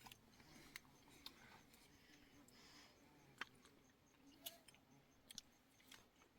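Near silence, with faint scattered clicks and ticks, the sharpest about halfway through.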